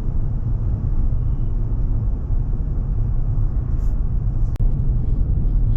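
Steady low rumble of a truck driving at road speed, with a single sharp click and a brief dropout about four and a half seconds in.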